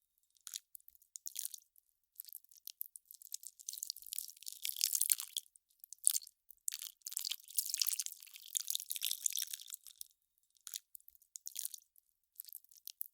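Melting ice crackling and popping: clusters of tiny, sharp, high-pitched clicks that swell and fade, with short silent gaps between them.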